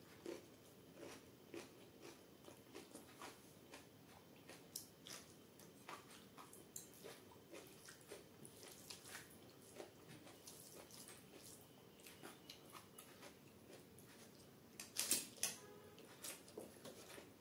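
Faint, close-miked mouth sounds of eating rice and chana dal dubke by hand: scattered small chewing clicks and smacks, with the soft squish of fingers working the wet rice and dal. A short louder burst of chewing sounds comes about fifteen seconds in.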